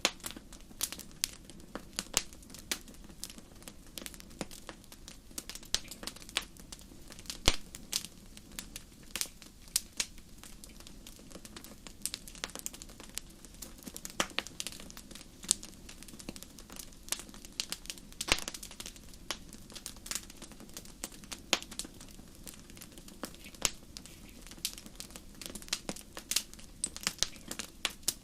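Firewood burning in a fireplace, crackling with an irregular run of sharp pops and snaps, several a second, over a soft low rumble of the flames. A few pops stand out louder, one about seven seconds in and another around eighteen seconds.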